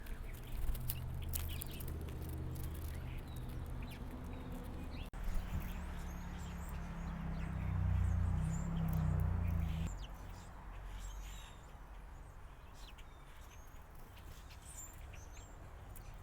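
Small backyard birds giving short, scattered chirps and call notes, over a steady low rumble that swells for a few seconds midway.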